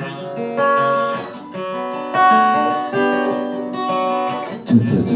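Acoustic guitar playing an instrumental passage between sung lines, a few notes and chords each struck and left to ring for about a second.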